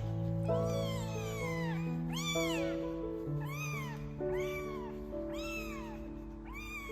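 Kitten meowing over and over, about once a second, each meow rising then falling in pitch, over background music with long held notes.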